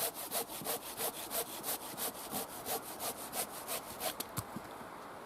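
Folding bucksaw cutting through wood in rapid, even back-and-forth strokes that stop about four and a half seconds in.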